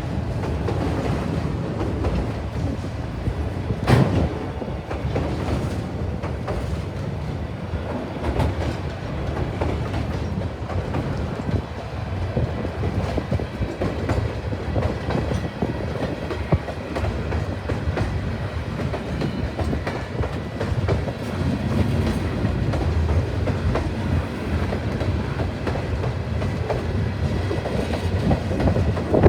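A train rolling past, its wheels clacking over rail joints in a steady rumble, with one sharp knock about four seconds in.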